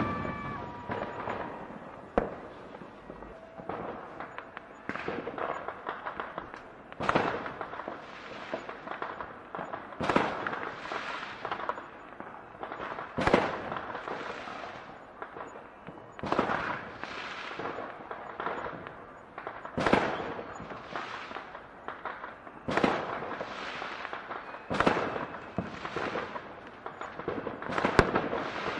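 Fireworks going off one after another: a sharp bang every second or two, each trailing off, with crackling in between.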